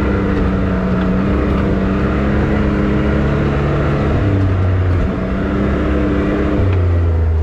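Can-Am X3 side-by-side's turbocharged three-cylinder engine running under throttle on a trail, its note stepping up and down a few times as the throttle changes, with a brief dip about five seconds in.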